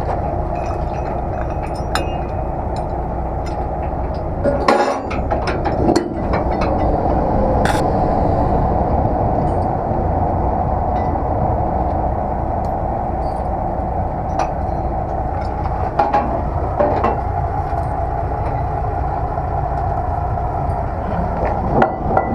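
Semi truck running steadily, an even engine and road drone, with scattered short clinks and rattles.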